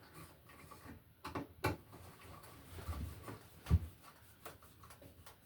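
Scattered light clicks and knocks from handling electrical box and surface-raceway parts, with the loudest knock a little under four seconds in.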